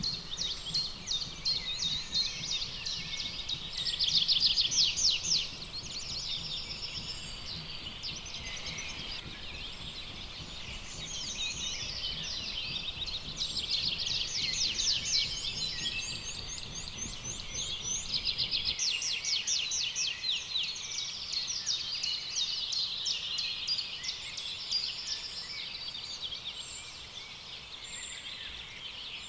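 Birds singing in a dense chorus, with rapid trills and calls repeating again and again. A low rumble underneath drops away about two-thirds of the way through.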